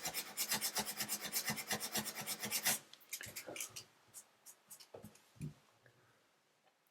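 600-grit sandpaper rubbed quickly back and forth by hand over a chipped spot on a bathtub, about five strokes a second, smoothing the chip's jagged edges before filling. The sanding stops about three seconds in, leaving a few faint handling taps.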